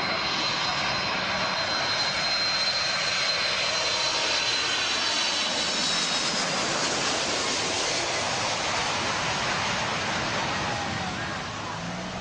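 Boeing 747's four turbofan jet engines, a loud, steady rush of noise with a thin high whine that fades out about halfway through. The sound eases off near the end as the airliner moves away.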